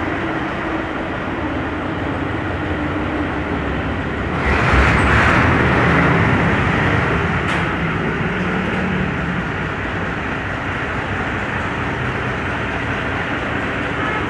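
Steady engine and road traffic noise, with a louder vehicle passing about four seconds in that fades over the next few seconds.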